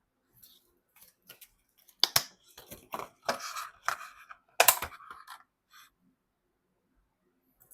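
Hands handling computer parts and their packaging: irregular clicks, knocks and scraping rustles, with two sharp knocks about two seconds in and near five seconds in.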